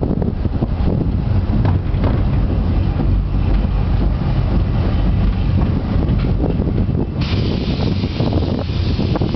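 Narrow-gauge passenger train running slowly on its track, heard from an open carriage: a steady low rumble of the wheels and carriage with scattered knocks. A louder hiss sets in about seven seconds in.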